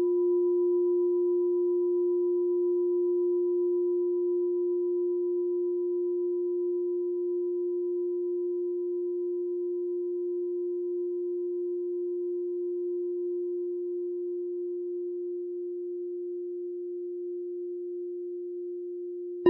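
A meditation bell ringing on with one steady low tone, slowly fading. Its faint higher overtone dies away about three-quarters of the way through. The bell is struck again at the very end.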